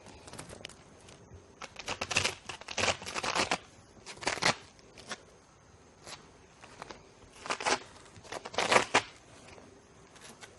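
Letter pieces being pulled off and pressed onto a felt board: several short scratchy tearing and rustling sounds, the loudest a few seconds in and again near the end.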